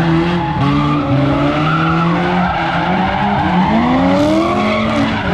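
A car doing donuts: its engine's revs rise and fall again and again while its spinning tyres squeal on the pavement.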